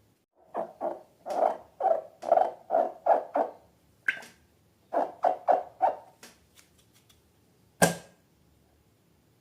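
Slime being squeezed and worked by hand: a quick run of wet squelches and pops in two groups, then a single sharp click near the end.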